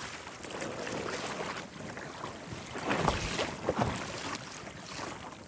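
Water splashing and slapping against the hull of a kayak under way, with wind buffeting the microphone; a few louder splashes come about three and four seconds in.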